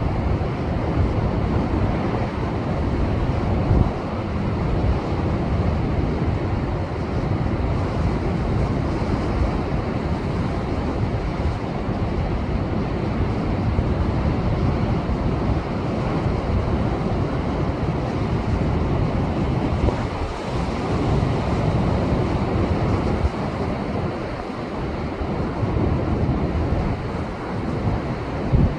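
Heavy post-typhoon Pacific surf surging and breaking against shore rocks: a continuous loud wash of churning water with a deep low rumble.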